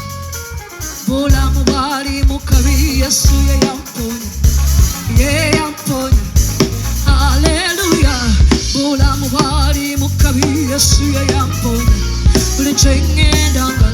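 Gospel worship music played live by a band, with drums and bass under a sung vocal line that bends and wavers in pitch.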